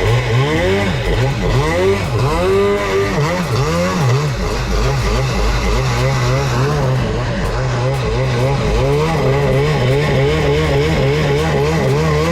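Kawasaki 650 two-stroke twin in a stand-up jet ski, with the throttle opened and eased off several times so the pitch swoops up and down. It then settles into a steadier high-revving run with a quick wobble in pitch, which fits the hull skipping over the water.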